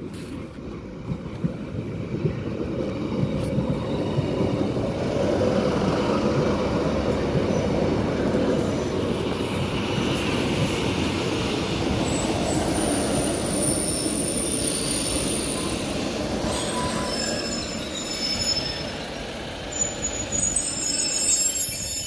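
Northern diesel multiple unit running into the platform, its rumble growing as it comes close. From about halfway through, high-pitched squealing from the brakes and wheels joins in, with several squealing tones at once as the train slows, and a sharp loud peak right at the end.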